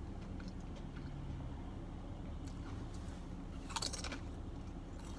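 A person chewing food with the mouth closed, with a short burst of crunchy, clicky mouth sounds a little before the end, over a steady low hum.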